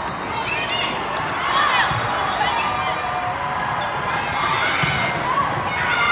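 Indoor volleyball rally: the ball being struck and bouncing, and shoes squeaking on the gym floor, over spectators talking. The crowd grows louder near the end.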